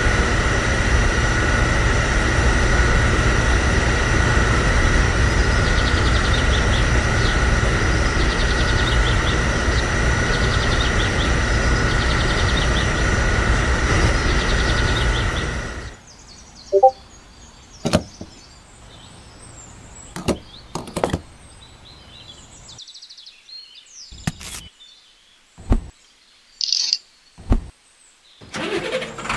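A small motor running steadily with a constant whine, cutting off abruptly about 16 seconds in. Then quiet, with a few sharp clicks and a short high chirp near the end.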